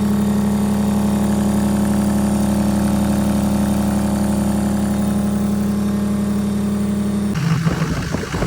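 A vehicle engine running steadily at idle with an even hum. About seven seconds in it breaks off abruptly and gives way to rougher, uneven noise.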